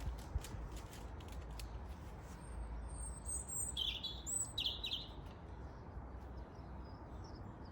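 A songbird chirping, a short run of high whistled calls in the middle, over a steady low wind rumble on the microphone, with a few light clicks near the start.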